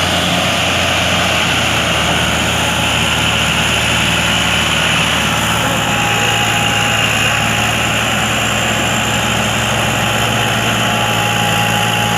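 Mahindra 575 tractor's diesel engine running steadily and loudly, hauling a heavy overload. A thin steady whine joins about halfway through.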